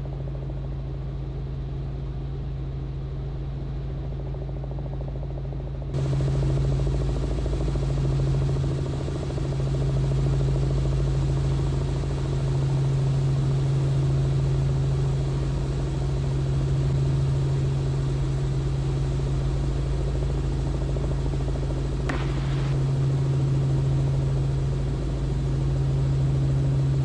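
Robinson R44 helicopter in flight, heard from the cabin: the steady drone of engine and rotors with a strong low hum. About six seconds in, it abruptly gets louder and brighter.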